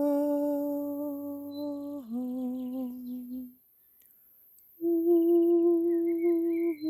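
A person humming long, steady held notes: the first note steps slightly lower about two seconds in and stops halfway through, then after a short pause a higher note is held. Birds chirp faintly near the end.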